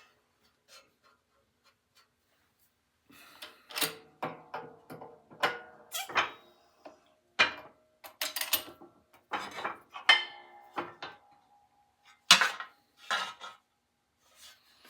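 Metal parts clinking and clattering as they are handled on a workbench, each knock leaving a brief metallic ring. A few faint ticks come first, then a run of sharp clinks starts about three seconds in, with the loudest one near the end.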